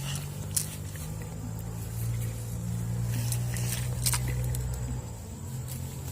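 Steady low hum of an engine or motor, growing a little louder from about two to five seconds in, with a few faint clicks.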